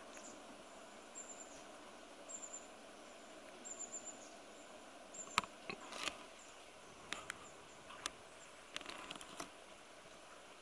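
A small bird's thin, very high call notes, short and repeated about once a second over a faint steady hiss. In the second half come several sharp clicks and taps.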